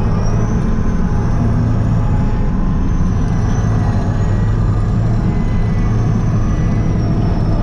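Kirovets K-700A tractor's diesel engine running steadily under way, a loud, even low rumble with a faint high whine that rises and falls slightly above it.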